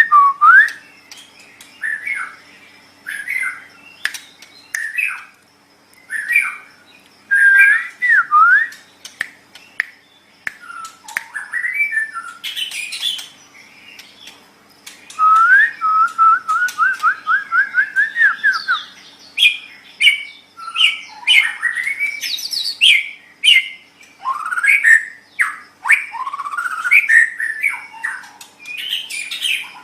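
White-rumped shama (murai batu) singing a long, varied run of loud whistled phrases and sharp notes, with a rapid string of about a dozen rising notes in the middle.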